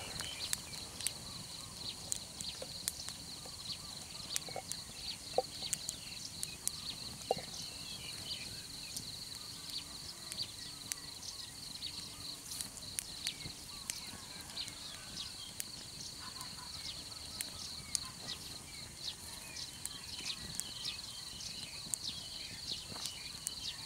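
Insects chirring steadily in one high, even pitch, with scattered small clicks and ticks and short chirps over it.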